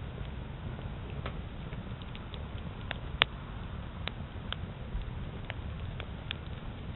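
Campfire crackling: irregular sharp pops and snaps, one much louder about three seconds in, over a low steady rumble.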